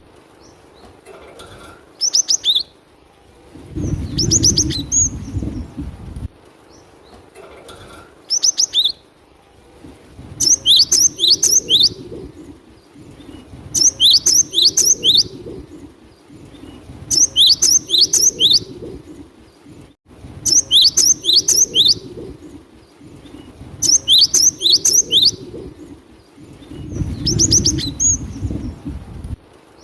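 Cinereous tit (gelatik batu) singing: short bursts of four to six quick, sharp high notes, repeated every three to four seconds. A low rumble sits under some of the bursts.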